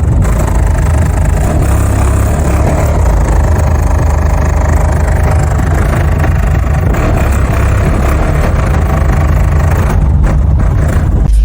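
A loud, deep, steady rumble from a car, with a rough hiss over it.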